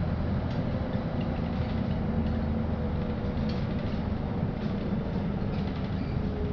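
Inside a LiAZ-5292.65 city bus under way: steady engine and road noise in the cabin, with a faint whine that drifts slowly lower in pitch and light rattles.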